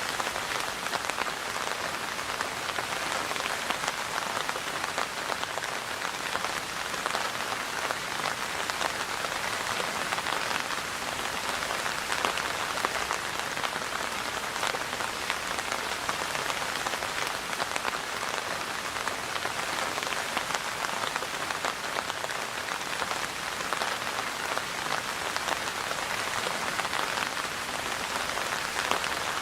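Steady rain falling, a dense even patter of drops with many small individual drop ticks.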